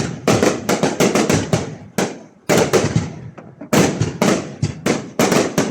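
Fireworks going off: rapid runs of sharp bangs, several a second, each with a short echoing tail, broken by brief lulls about two seconds in and again near the end.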